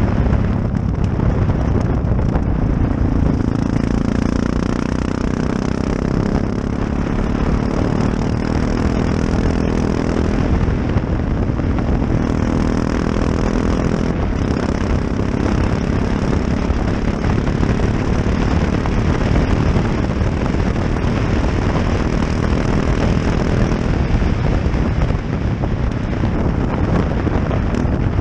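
Yamaha XT660X single-cylinder motorcycle engine running at road speed, its pitch rising and falling with the throttle, under heavy wind rush on a helmet-mounted camera.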